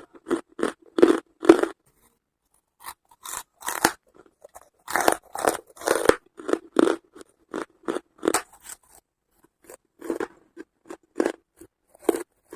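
Charcoal being bitten and chewed close to the microphone: runs of sharp, dry crunches in clusters, with pauses of about a second between them.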